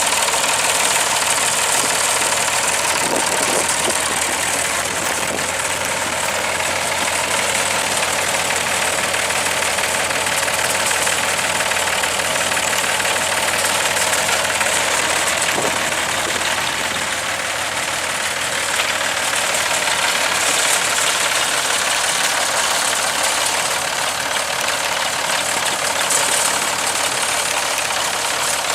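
Massey Ferguson 2135 industrial tractor's diesel engine running steadily.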